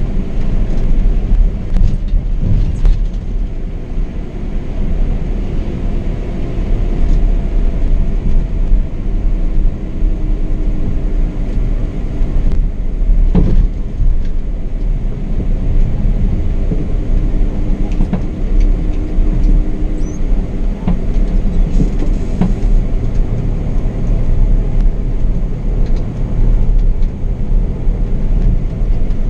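Steady running noise of a Scania K420 double-decker coach at road speed, its rear-mounted 13-litre straight-six under a deep rumble of tyre and road noise. A few faint steady tones come and go in the middle, and a short knock sounds about 13 seconds in.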